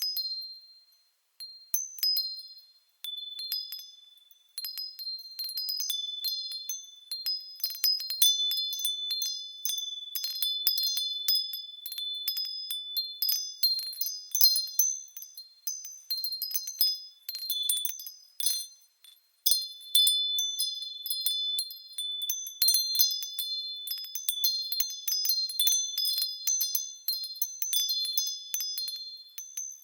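Japanese furin wind chimes ringing in the breeze: irregular clusters of light strikes with high, overlapping ringing tones, pausing briefly a few times, including once about two-thirds of the way through.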